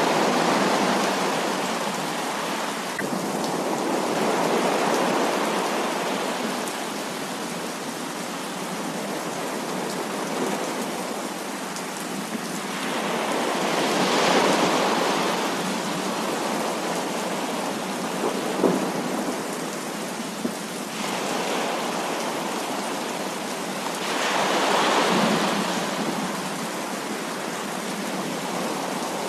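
Heavy rain pouring steadily, with thunder rolling in several long swells, the strongest about halfway and near the end.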